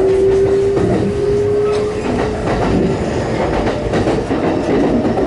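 Kintetsu 9820 series train running, heard from inside the car: the whine of its Mitsubishi IGBT VVVF inverter rises slowly in pitch as the train accelerates, then fades out about two and a half seconds in, over rumble and wheels clicking on rail joints.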